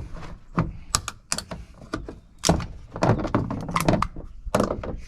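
Irregular run of sharp clanks and thunks, about a dozen, from appliance sheet metal and parts being knocked, pried and handled during scrapping.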